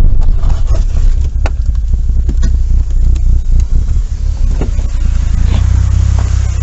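Car running, a heavy low rumble with scattered short knocks and clicks.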